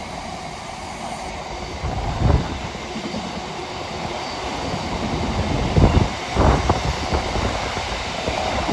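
Freight train of box wagons rolling past on the rails, with wheels clattering over the track and several sudden louder thumps.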